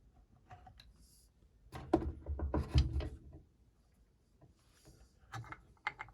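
A burst of clattering knocks from metal engine parts being handled and fitted, with a few more knocks near the end.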